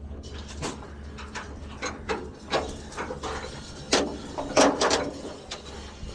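Irregular clanks, knocks and rattles of scrap and debris being handled, the loudest about four to five seconds in, over a low steady rumble.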